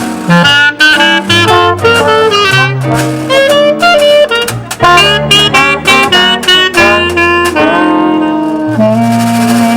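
New Orleans–style jazz band playing: horns carry a fast melodic line over keyboard and washboard rhythm, then settle into a long held chord about nine seconds in.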